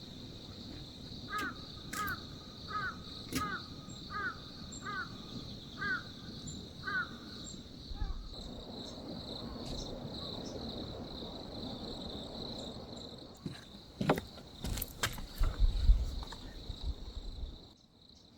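A crow calling about eight times in a row, evenly spaced under a second apart, then falling silent. Near the end come a few sharp knocks and a low rumble.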